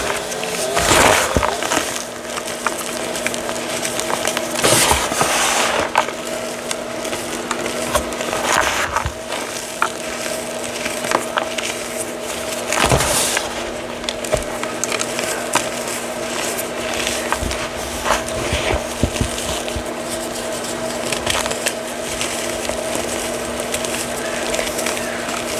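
Reformed chalk being crushed and crumbled: continuous gritty crackling and crunching, with louder crunches every few seconds, over a steady background hum.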